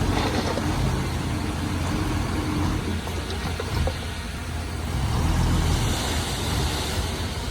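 Komatsu D31P bulldozer's diesel engine running steadily with a low rumble, swelling louder for a couple of seconds about five seconds in.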